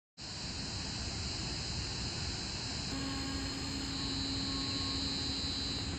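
Distant freight train running along the track, a steady rumbling noise with a low, even hum joining about halfway through.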